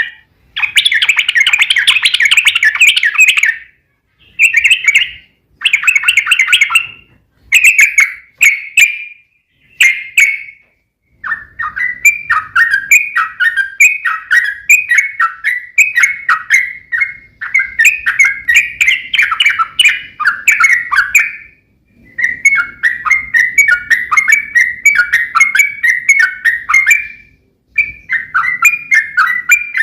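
Yellow-vented bulbul (trucuk) song, rapid bubbling chatter. There are several short phrases with pauses for about the first ten seconds, then long, unbroken runs of quick repeated notes.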